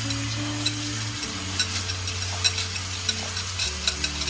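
Jasmine rice being washed by hand in water, rubbed and swished to rinse the starch off: a continuous gritty, crackly sound with many small irregular clicks of grains.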